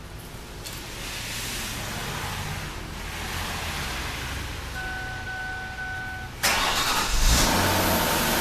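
A Ford sedan's engine cranks and catches about six and a half seconds in, then runs on steadily. Just before it, the car's electronic warning chime beeps.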